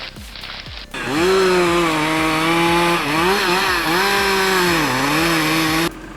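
Chainsaw engine running at high speed. It starts abruptly about a second in, dips in pitch twice and cuts off suddenly near the end. Before it comes a brief hissing, sizzling noise.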